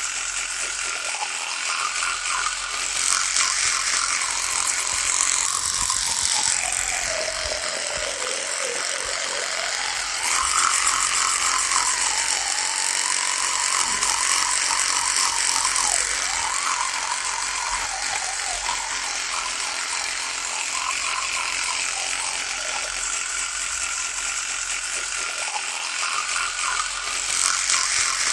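Electric toothbrush buzzing steadily. Its pitch sags for a few seconds about a third of the way through, then climbs back and wavers.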